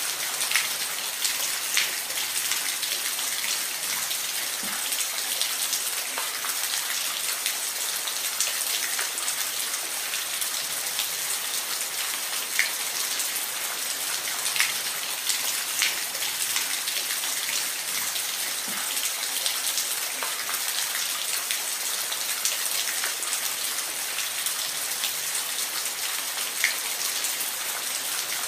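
Steady hiss of falling water, with scattered sharp drips and splashes standing out every second or two.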